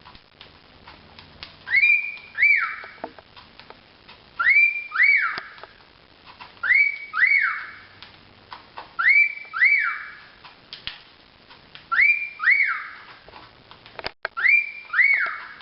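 Cockatiel wolf-whistling over and over: a rising whistle then a falling one, the pair repeated six times about every two and a half seconds, with faint small clicks in between.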